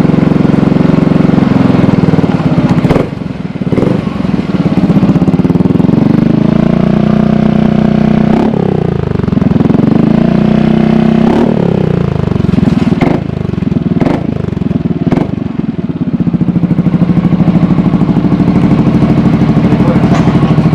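Yamaha XMAX 250 scooter's single-cylinder four-stroke engine running through a Smoke aftermarket muffler. It idles steadily, is revved with throttle blips around the middle that rise and fall in pitch, and gives several sharp pops.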